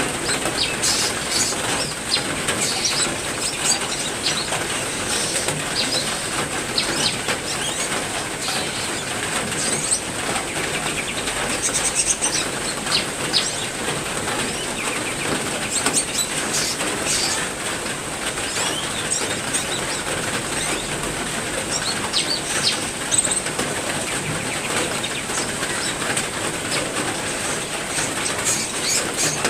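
Steady heavy rain with many short, high bird chirps and calls scattered over it throughout.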